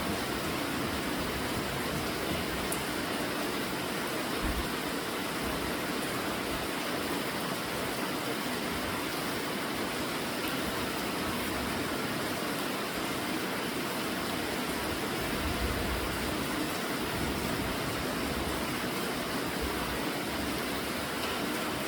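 Steady rainfall hissing without a break, with a few brief low rumbles underneath.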